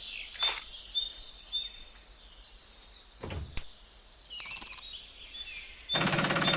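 Birds chirping with short, high calls, with one low thump near the middle. About six seconds in, the mini tractor's motor starts running again with a steady noise.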